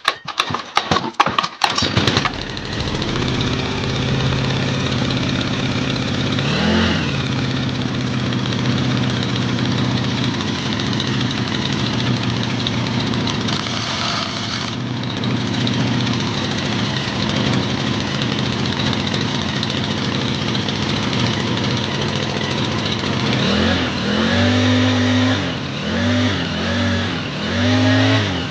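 Small four-stroke water-pump engine fitted with a pitbike centrifugal clutch, pull-started against stiff compression. It sputters for about two seconds, catches and idles steadily, with one brief rev about seven seconds in. Several quick revs up and down come near the end.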